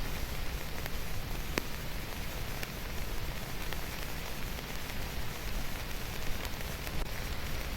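Steady rain falling, a dense even hiss with occasional separate drop clicks.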